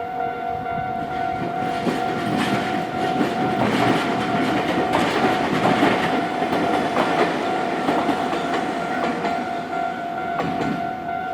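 Nankai Electric Railway train passing over a level crossing, its wheels clattering over the rail joints, loudest a few seconds in and easing off towards the end. Under it the crossing warning signal rings steadily.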